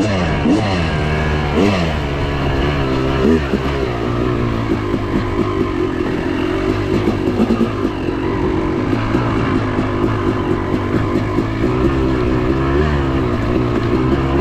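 Yamaha YZ250 two-stroke dirt bike engine being ridden, its pitch rising and falling with the throttle. There are a few quick revs in the first few seconds, then it runs on with steady, varying throttle.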